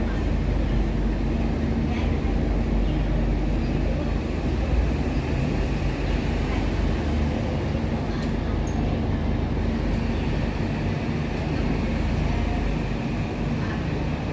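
Steady low rumble of a running engine or large machine, with a constant hum that holds one pitch throughout.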